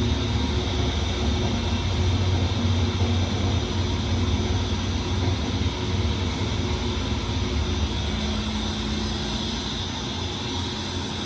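Seydelmann AU200 frozen-block meat grinder running steadily: a loud, even machine drone with a deep hum and a few held tones, easing off slightly near the end.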